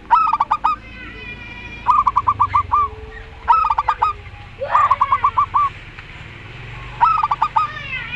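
Perkutut (zebra doves) cooing in five bouts, each a quick run of five to seven staccato notes, two birds answering each other. Fainter chirps from smaller birds sound between the bouts.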